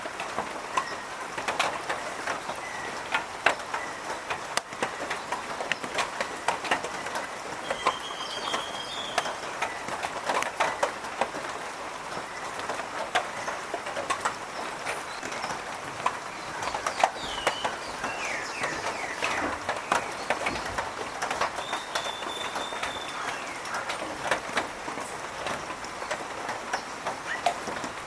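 Birds calling now and then with short whistled notes, over a dense, irregular clicking and tapping.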